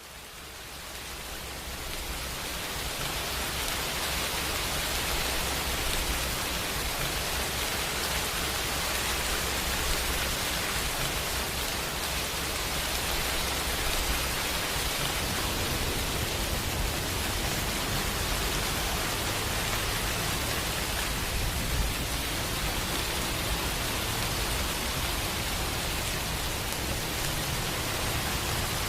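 Steady heavy rain hiss fading in over the first few seconds, then holding level, with a continuous low rumble underneath.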